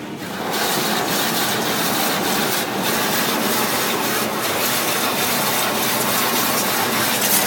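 Automatic car wash spraying water onto the car, heard from inside the cabin: a loud, steady rushing hiss that starts about half a second in.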